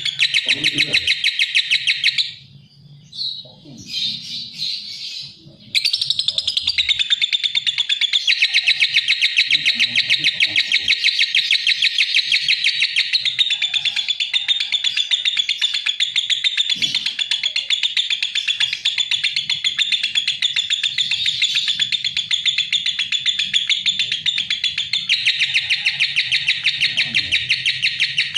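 Lovebird singing a long, very fast chattering trill of high chirps. It breaks off for a few quieter, scattered calls about two seconds in, then resumes and runs on without a pause.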